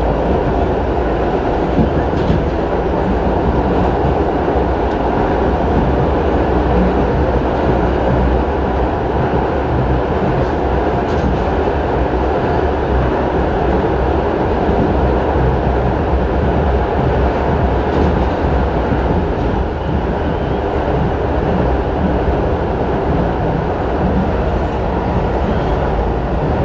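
R68 subway train running at steady speed, with a constant loud rumble of wheels on rail and motor noise.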